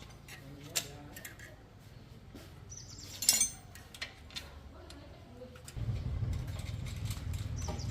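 Birds chirping, with a few sharp clicks and knocks, the loudest a little after three seconds in. About six seconds in, a low steady hum starts suddenly.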